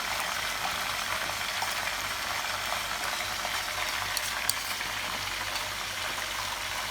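Steady hiss of food sizzling on the stove, with two light clicks about four seconds in.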